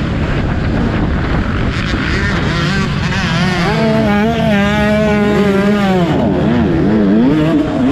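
Motocross bike engines running on the track, revs rising and falling. One engine holds a high, wavering pitch through the middle, then drops and surges in quick swoops over the last couple of seconds.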